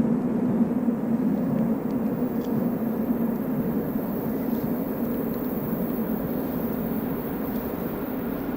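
Train running on the Semmering mountain railway: a steady rumble with a low hum, a few faint ticks over it.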